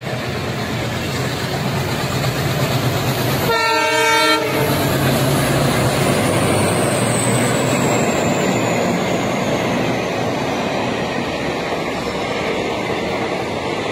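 Dubbed recording of a real train running, a steady rumble throughout, with one short multi-tone horn blast about three and a half seconds in.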